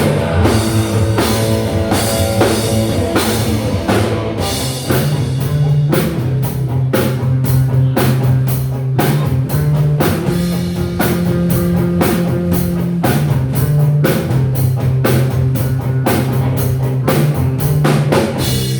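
Live rock band playing an instrumental passage: distorted electric guitar, bass and a drum kit keeping a steady beat.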